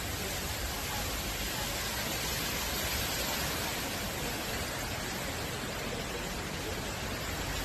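Steady rushing of water, an even hiss with no breaks or separate impacts.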